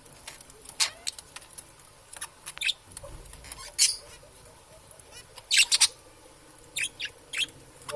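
Pet budgerigars giving short, sharp chirps and squeaks at irregular intervals, with a louder cluster a little past the middle.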